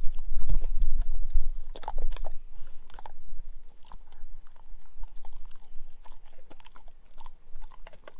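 A dog chewing, with irregular sharp clicks and crunches of teeth on something hard.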